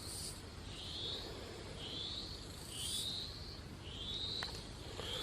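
A bird repeating a short rising call about once a second.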